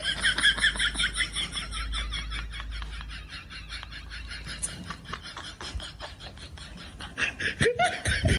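Long run of rapid, high-pitched giggling laughter that fades after about five seconds, with a short voice sound near the end.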